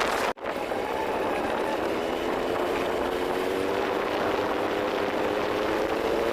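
A vehicle engine running on the move under a steady rush of road and wind noise, its pitch slowly rising. The sound cuts out briefly just after the start.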